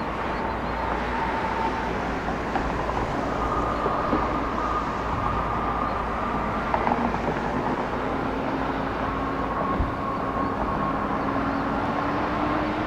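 Steady jet engine noise from aircraft at the airport, with faint whining tones that drift slightly in pitch.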